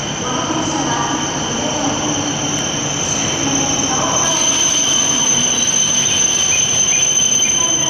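Shinkansen bullet train moving along the platform: a steady rush of wheels and running gear, with two steady high-pitched whines over it. It grows slightly louder in the second half.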